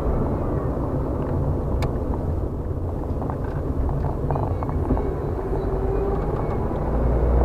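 Steady road and engine noise inside a moving car, with a low rumble and one short click about two seconds in.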